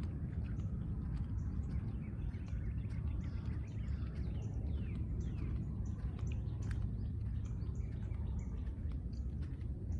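Small songbirds chirping and singing, with many short, quick downward-sweeping notes scattered throughout, over a steady low rumble that is louder than the birdsong.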